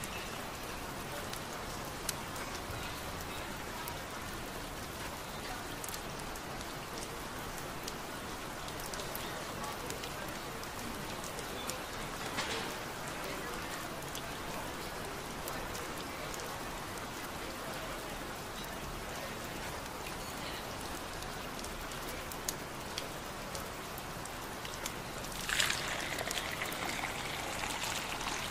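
Steady rain falling, an even patter of drops with scattered sharper drip clicks. A louder, brighter spell of sound comes about three seconds before the end.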